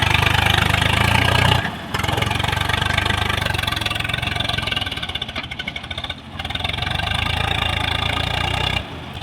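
Heavy diesel engine running steadily, a low even drone with a rattly mid-range, broken by abrupt short gaps about two seconds in, about six seconds in and near the end.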